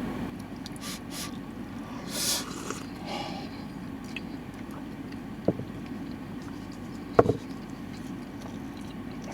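Vehicle engine idling as a steady low rumble, with a few sharp clicks and knocks, the loudest about seven seconds in, and a brief hiss a little over two seconds in.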